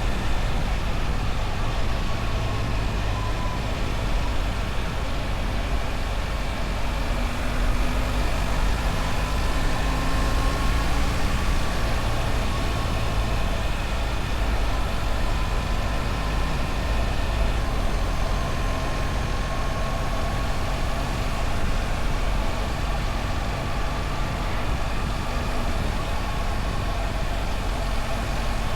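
BMW R1300 GS boxer-twin engine running steadily under way, mixed with a constant rush of wind and road noise. The engine's pitch drifts gently up and down now and then.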